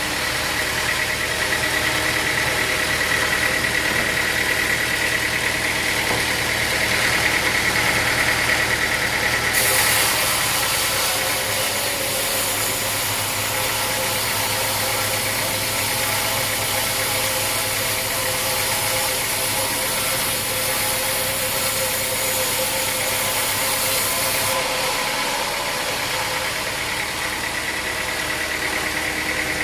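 Sawmill machinery running steadily, a drone with a high whine. About ten seconds in a loud hiss starts suddenly and stops about fifteen seconds later, as a saw cuts through wood.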